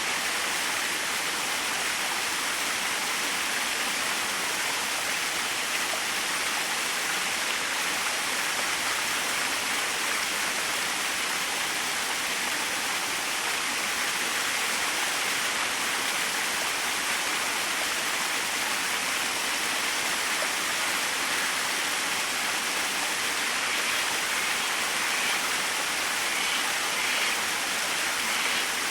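Small waterfall running: a steady, even rush of falling and splashing water.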